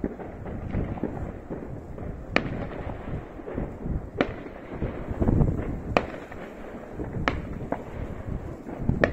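Fireworks: a continuous rumble of many bangs, with about five sharp cracks of bursting aerial shells standing out every one to two seconds and the rumbling heaviest about halfway through.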